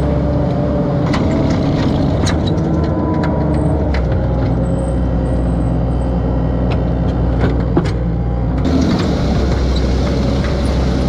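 Skid steer loader's engine running steadily, with scattered sharp clanks and knocks over it.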